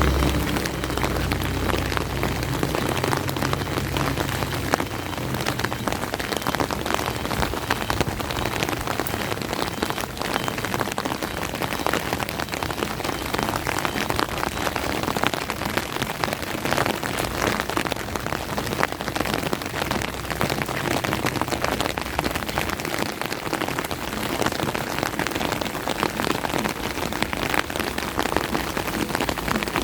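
Steady rain falling, a dense even hiss made of countless individual drop hits. A low rumble fades out over the first few seconds.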